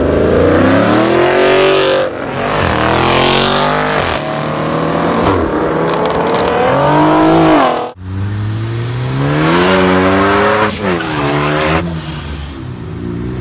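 Performance car engines accelerating hard, the pitch climbing and dropping repeatedly as they rev through the gears. The sound breaks off abruptly about eight seconds in, and another car's revving run begins.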